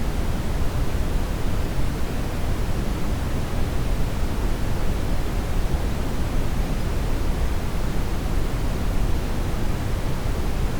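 Steady synthetic brown noise: an even, deep rushing hiss, strongest in the bass and falling away toward the treble, with no change throughout.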